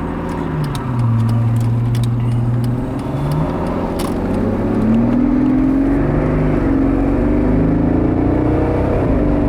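Mercedes SL65 AMG's twin-turbo V12 driving, heard from inside the cabin: its pitch drops about a second in, holds steady, then climbs from about four seconds and holds at the higher pitch.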